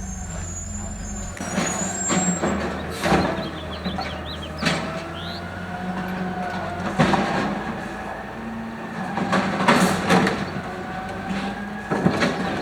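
2012 automated side loader garbage truck running, its engine humming steadily under about five loud clanks spread through the stretch, with some squealing along the way. Birds chirp faintly in the background.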